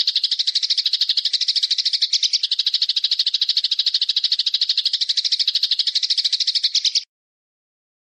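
A small bird's long, even, high-pitched rattling trill of about a dozen notes a second, from a recorded masteran call for training cage songbirds. It cuts off abruptly about seven seconds in.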